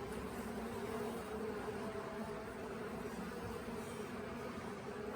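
Steady buzzing hum of a honey bee swarm around a nuc box, as the bees walk into the box on their own.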